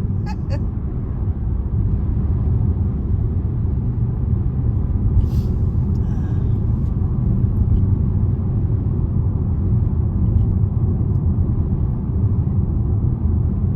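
Steady low road and engine rumble of a car driving at road speed, heard from inside the cabin. A brief faint hiss about five seconds in.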